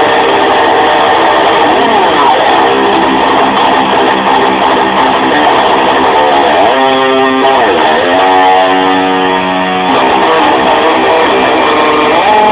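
Electric guitar playing sustained notes, with whammy-bar dive-bombs in which the pitch swoops down and back up: once about two seconds in, and twice in quick succession around the middle.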